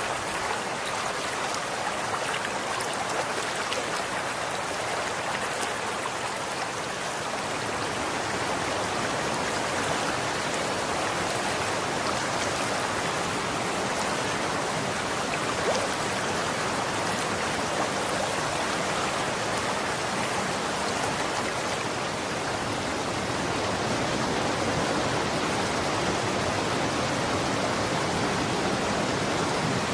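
Running water in a stream, a steady dense rushing and splashing.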